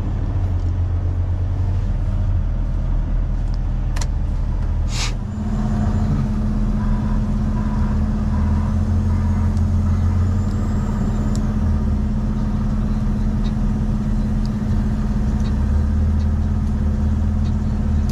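Heavy truck engine running steadily with a low drone. About four and five seconds in there are two sharp clicks, and from then on a steadier, higher hum joins the engine note.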